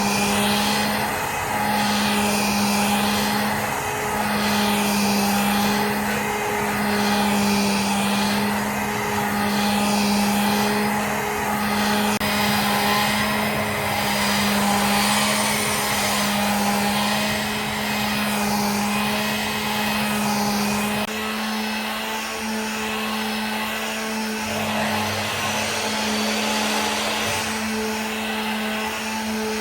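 Workshop machine running steadily: a motor hum that swells and fades about every two seconds, its pitch shifting slightly near the end.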